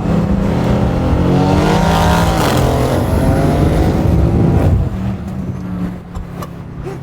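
Straight-piped Mercedes-AMG C63 S twin-turbo V8, running new downpipes, accelerating hard. The engine note rises in pitch for about two and a half seconds and stays loud. Nearly five seconds in, the throttle lifts and the engine falls to a quieter, lower steady drone.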